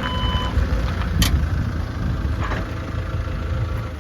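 Forklift engine running steadily, with its reversing alarm giving one last beep at the start and a sharp click about a second in.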